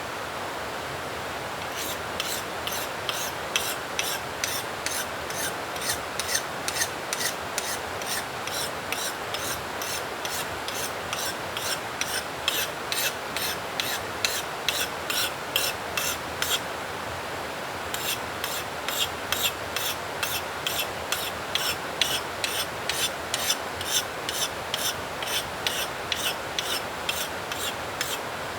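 Axe blade being sharpened on a whetstone: rapid, regular scraping strokes, about three a second, that stop briefly around the middle and then resume.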